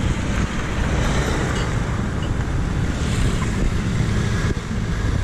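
Wind rumbling on the microphone of a moving bicycle, with road traffic noise underneath.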